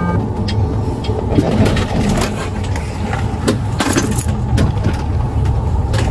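Motor vehicle running: a steady low engine and road rumble with scattered light clicks and rattles.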